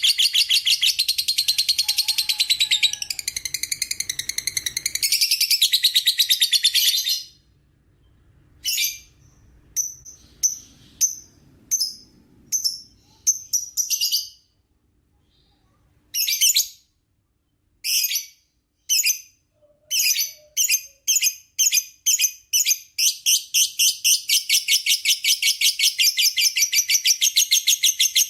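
Lovebird singing its long chattering 'ngekek' song: a rapid, high-pitched chatter for about seven seconds, then a pause broken by separate short chirps, which come faster and faster until they run together again into continuous rapid chatter over the last five seconds.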